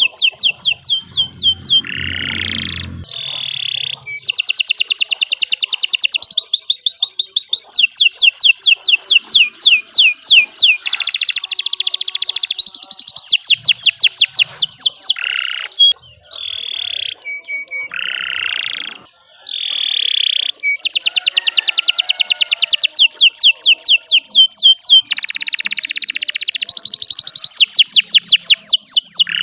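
Domestic canary singing a long, nearly continuous song: fast trills of rapidly repeated high notes alternating with short harsher, hissing notes, with only brief breaks between phrases.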